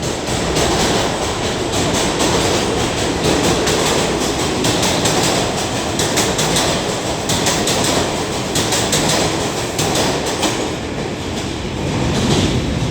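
7 line subway train running on the rails: a steady rumble and hiss of wheels with a rapid, irregular clicking over the rail joints.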